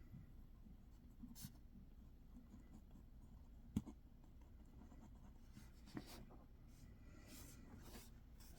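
Faint scratching of a pen writing and underlining on paper, with a sharp light tap about halfway through and a smaller one a couple of seconds later.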